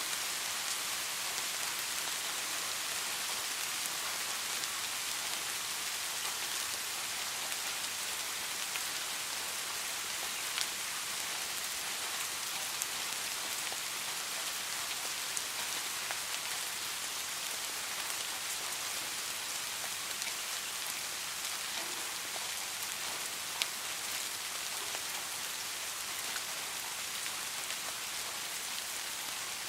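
Steady rain falling, an even hiss, with a few brief sharper drop ticks.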